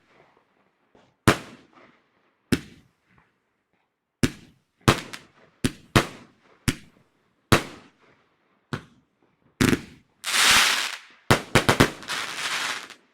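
Consumer fireworks going off: a string of sharp bangs, each trailing off, spaced roughly half a second to a second apart. About ten seconds in comes a second-long hissing crackle, then a quick cluster of bangs and another hissing stretch near the end.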